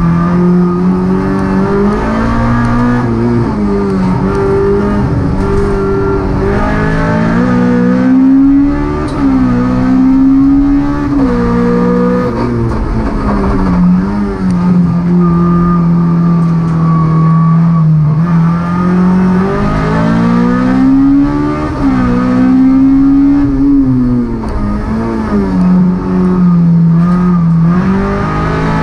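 Honda Civic's 1.6-litre four-cylinder race engine heard from inside the cabin, revving hard under full throttle: its pitch climbs and falls again and again as the driver accelerates, lifts and shifts through the slalom, with a longer steady pull about halfway through.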